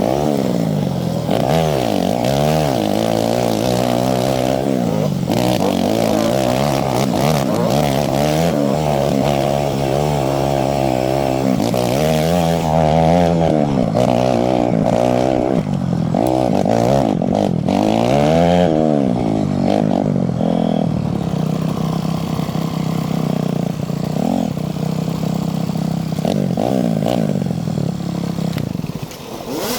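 Yamaha YZ250 two-stroke dirt bike being ridden, its engine revving up and dropping back over and over with the throttle and gear changes. It runs more evenly, at lower revs, for the last third.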